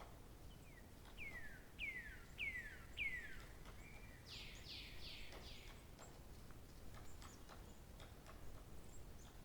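A songbird sings one phrase about a second in: four clear whistles that each slide down in pitch, followed by a quicker run of four higher downward-sweeping notes. Faint scattered ticks sound in the background.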